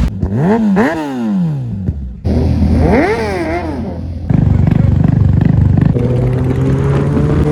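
Kawasaki ZX-10R inline-four engine revved hard twice, the pitch shooting up and dropping back each time. It then settles into a rough low running note, and near the end a steadily rising note as the bike pulls away.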